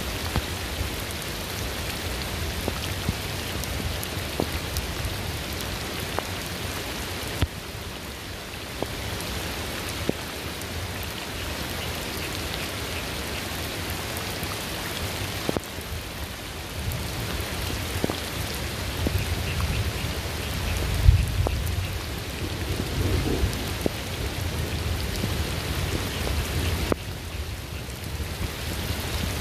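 Steady rain falling on a surface, with individual drops ticking sharply. About two-thirds of the way in, a low rolling thunder rumble builds, is loudest for a moment, then fades away.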